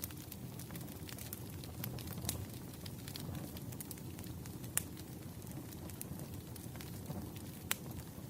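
Wood fire crackling: scattered sharp pops and snaps over a low steady rumble, with two louder pops, one near the middle and one near the end.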